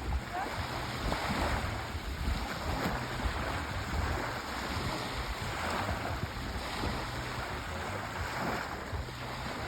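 Sea waves washing onto a shore: a steady hiss of surf that swells every two or three seconds, over a constant low rumble.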